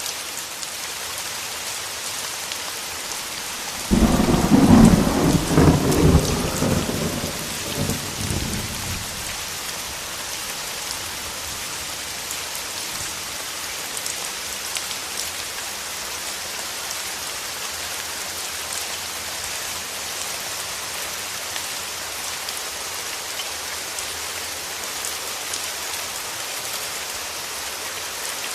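Steady rain falling, with a single thunderclap about four seconds in that breaks suddenly and rumbles away over the next five seconds or so.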